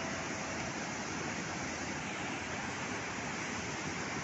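Steady rush of a river in flood, a constant churning roar of fast-moving water.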